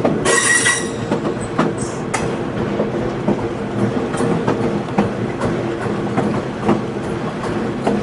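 Railroad passenger cars rolling along, the wheels clicking irregularly over rail joints above a steady low rumble and hum. A brief high-pitched squeal sounds about half a second in.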